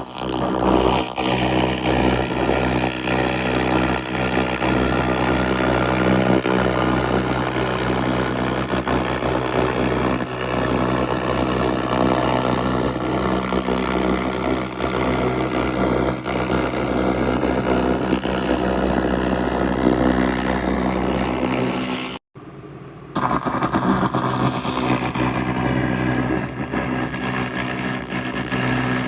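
Handheld laser rust remover (SFX 2000) ablating rust off metal: a steady crackling buzz over the machine's low hum. It cuts out for a moment about 22 seconds in, then starts again.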